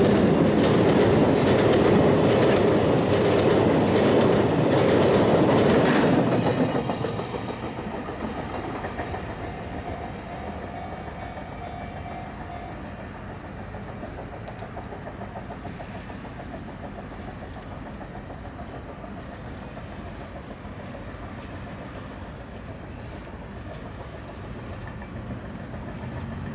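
Freight train of oil tank wagons rolling past, its wheels clacking over the rail joints. The sound drops off sharply about seven seconds in and then continues as a lower, steady rumble while the train runs on away.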